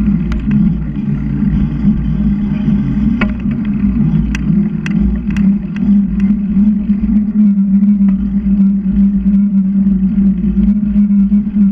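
Steady low rumble of wind and road noise from riding a bicycle, with a constant hum and several sharp ticks in the first half.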